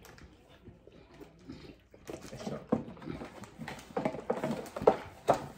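People chewing gummy fruit snacks, with wet mouth clicks and the rustle and tapping of a cardboard snack box and wrappers. It is sparse for the first couple of seconds, then a quick run of short clicks follows.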